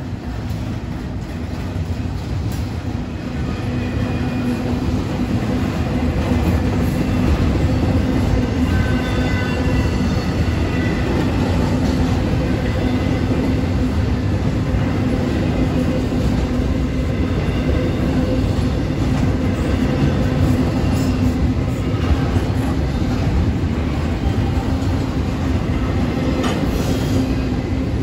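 Double-stack intermodal freight train rolling past at close range: a continuous rumble of steel wheels on rail that grows louder over the first few seconds, with faint wheel squeal now and then.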